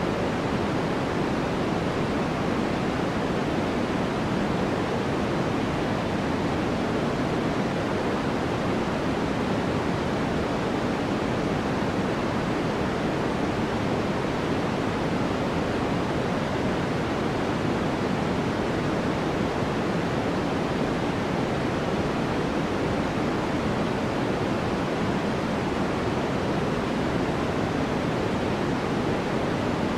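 Steady white-noise track: an even, unchanging hiss, fuller in the low and middle range than in the highs.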